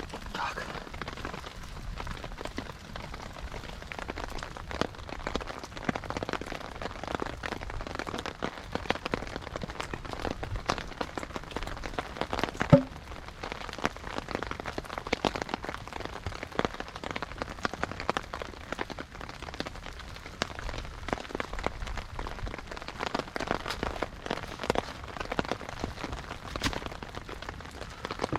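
Steady rain falling, with many scattered sharp ticks and one louder knock about 13 seconds in.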